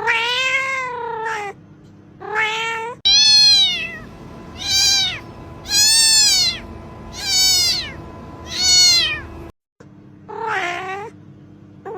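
Domestic cat meowing, about eight separate meows, each rising then falling in pitch. About three seconds in it cuts abruptly to a run of higher-pitched meows about a second and a half apart, then a lower meow near the end.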